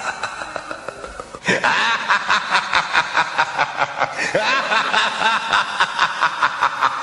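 Birds chattering: a fast, even run of short harsh calls, about five or six a second, that starts abruptly about a second and a half in.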